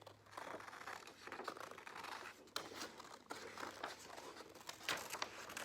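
Scissors cutting paper in irregular short snips, with the paper rustling as it is turned.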